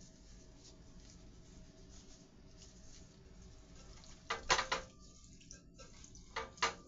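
Dishes and utensils clinking and clattering: a short cluster of sharp, ringing knocks about four seconds in and a second, shorter one near the end, over a faint steady background.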